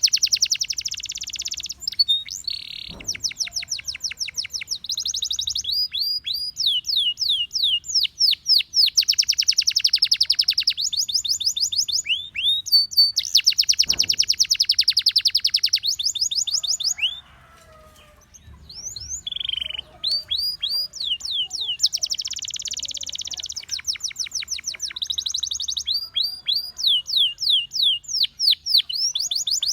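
Gloster canary singing a long song: phrases of quick, repeated downward-sweeping notes alternating with very fast trills, with a brief break in the song about seventeen seconds in.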